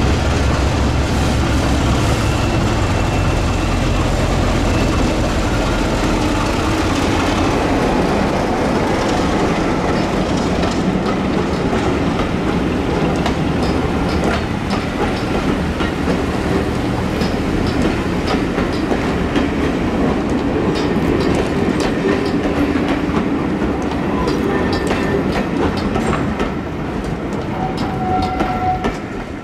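A diesel-hauled train passing. The locomotive's low engine hum fades over the first several seconds, then the coaches' wheels clickety-clack over the rail joints. The sound falls away just before the end.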